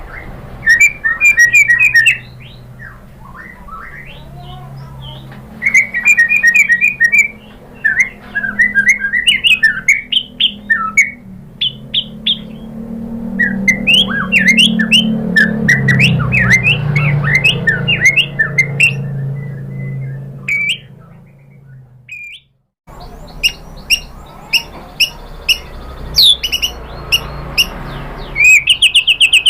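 White-rumped shama (murai batu) singing bursts of quick whistles, chirps and rapid trills, with a low hum underneath. The sound drops out briefly about 22 seconds in, then the song starts again.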